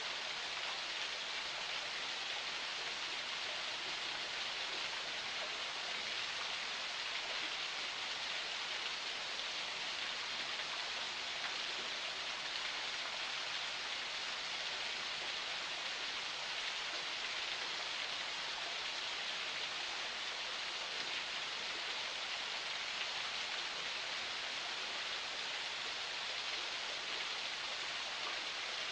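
Forest spring water flowing and splashing, a steady even rush.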